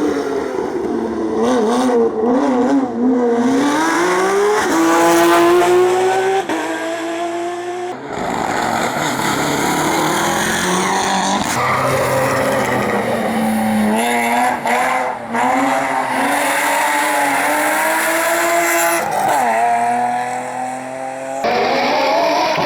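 Competition car engines at full throttle on a hillclimb, the pitch climbing under acceleration and dropping at each gear change. The sound jumps abruptly several times from one car to another.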